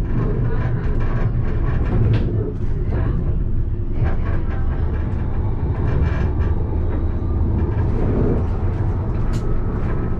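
Alstom Citadis low-floor tram running on its rails, heard from the driver's cab: a steady low rumble with a few sharp clicks from the wheels.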